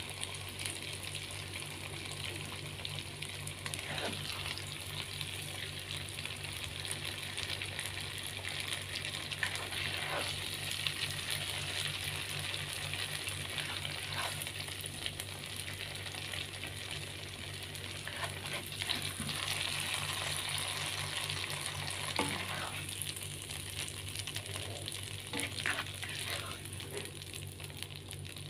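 Tofu pieces sizzling steadily in hot oil in a pan, with a few short scrapes and taps of a spatula as the fried pieces are lifted out.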